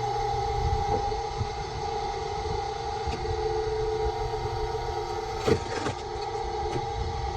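An engine running steadily at constant speed, with two sharp knocks about five and a half seconds in.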